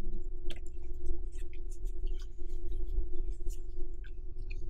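Close-miked chewing of creamy shrimp carbonara spaghetti: many soft, wet mouth clicks and smacks, scattered and irregular. An electric fan hums steadily underneath.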